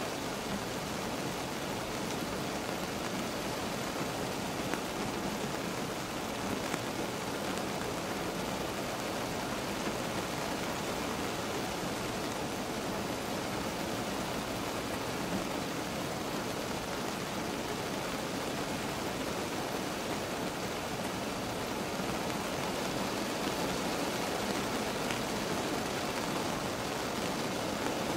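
Steady rain heard from inside a car: a dense, even hiss of falling rain, swelling a little near the end.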